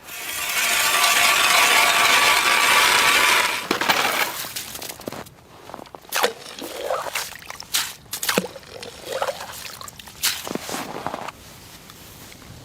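Water thrown onto a sauna stove's hot stones, hissing loudly for about three and a half seconds, then a string of clinks and knocks.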